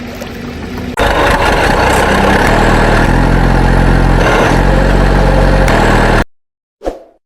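A loud, steady vehicle engine running. It comes in abruptly about a second in and cuts off sharply about five seconds later, followed by a brief faint sound near the end.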